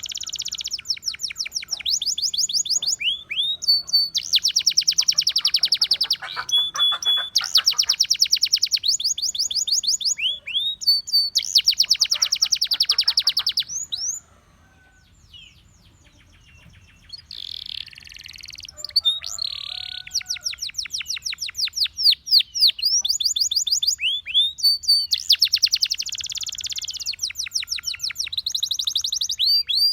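Russian singing canary singing long trilled phrases: fast runs of repeated high notes, with a pause of a few seconds about halfway through before the song resumes.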